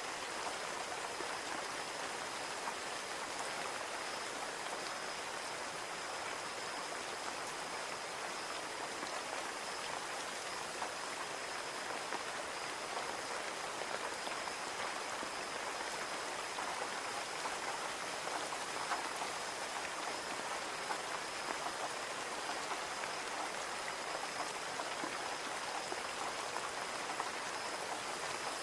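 Steady rain with many small drop ticks, rain on a window.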